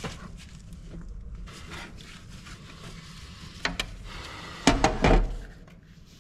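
Hands and tools working around a tractor's diesel filter: rubbing and small clicks, a sharp knock a little over halfway through, then a louder run of clunks and scraping near the end.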